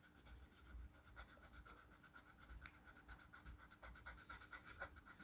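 Faint scratching of colouring strokes on paper, many quick small strokes.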